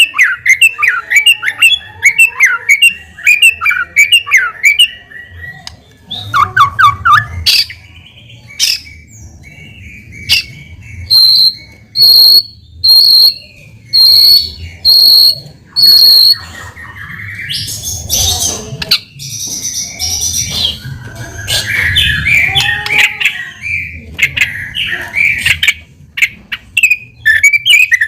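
A white-rumped shama in full, loud song, with constantly changing phrases. It opens with quick runs of notes, sings six clear repeated whistled notes in the middle, and then moves into harsher, rasping phrases.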